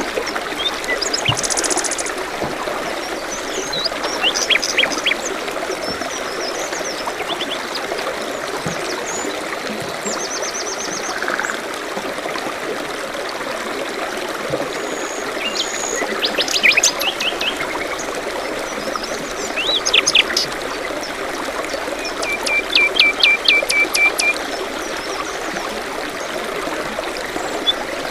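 Running water, a stream trickling steadily, with small birds chirping over it in short scattered calls. About three-quarters of the way through, one bird gives a quick run of repeated notes.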